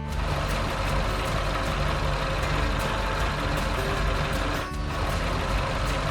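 Large truck engine running steadily, with music underneath.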